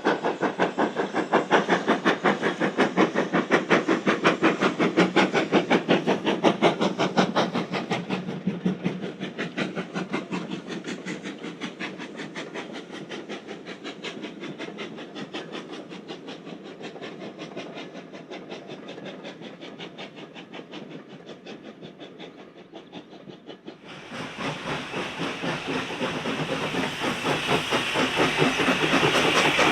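Steam locomotive working under steam, its exhaust beating in a fast, even rhythm with steam hiss, fading away over some fifteen seconds. About 24 seconds in, the sound switches abruptly to another steam locomotive working close by, louder, with stronger hiss.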